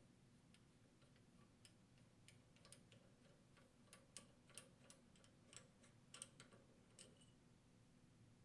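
Faint, irregular metallic clicks and ticks, about two a second, from a pipe wrench working loose the large nut that joins the two halves of a detergent pump body.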